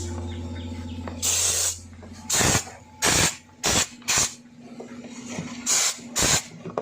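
Compressed-air spray gun hissing in short bursts, about seven of them, as diesel is sprayed at high pressure over a car engine to degrease it. A low steady hum runs underneath and stops about halfway through.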